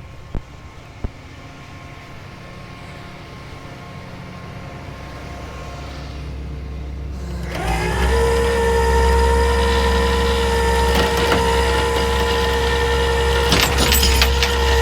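Rollback tow truck running: three sharp clicks in the first second, then a low engine rumble that slowly builds. About eight seconds in, it steps up abruptly as a steady whine joins and holds.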